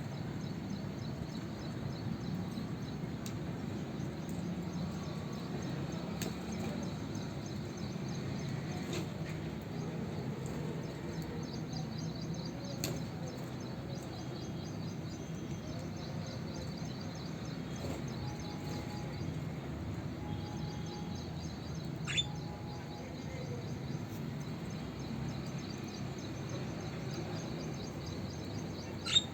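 Budgerigars chirping and chattering faintly and intermittently over a steady low background hum, with a few short sharp chirps about 13 and 22 seconds in and near the end.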